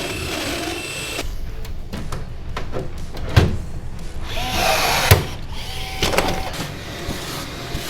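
Vacuum running, cutting off suddenly about a second in, then scattered knocks and clunks, two of them sharp and loud.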